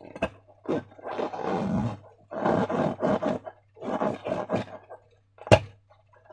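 Slime being squeezed and worked, giving irregular wet squelching bursts, with one sharp snap about five and a half seconds in.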